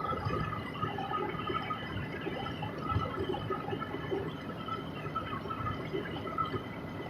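Steady road noise inside a moving car driving through snow: tyres hissing and crackling over a wet, slushy road, with faint high tones running through it.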